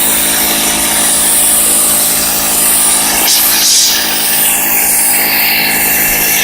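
AR Blue Clean AR390SS electric pressure washer spraying through a 0-degree tip: a steady hum from the motor and pump under the loud hiss of the high-pressure water jet.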